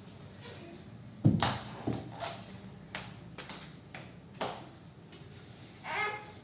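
Scattered light knocks and taps, the loudest a deep thump about a second in. A brief voice comes near the end.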